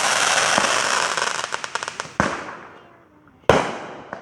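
Consumer fireworks going off: a loud hiss with rapid crackling for about two seconds, then two sharp bangs a little over a second apart, each fading away.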